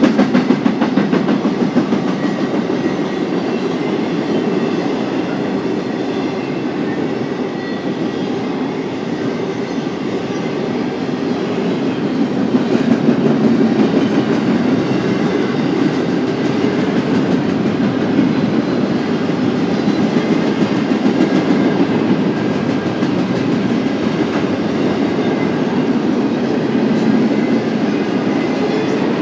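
Intermodal freight train's cars rolling past at steady speed: a continuous rail rumble with the clatter of wheels over the track.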